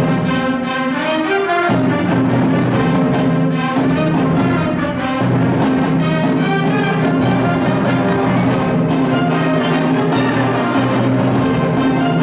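High school concert band playing loud, sustained full chords, the harmony shifting about two seconds in and again about five seconds in.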